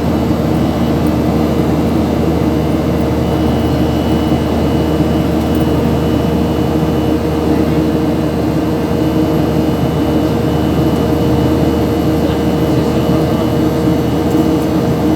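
Steady engine drone of a travelling vehicle, with a few held hum tones over a constant rushing noise.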